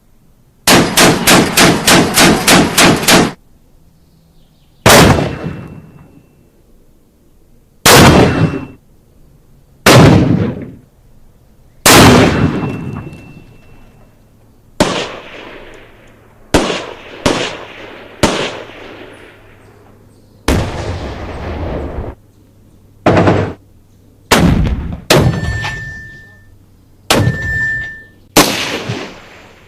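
Gunfire sound effects: a rapid automatic burst of about ten shots near the start, then single shots one to three seconds apart, each trailing off. Two of the later shots carry a short high ringing ding.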